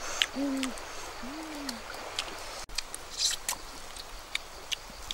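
Three low bird hoots in the first two seconds, each a short note that rises then falls in pitch. Scattered sharp clicks follow.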